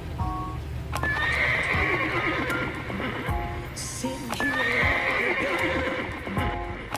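A horse neighing, twice, over backing music.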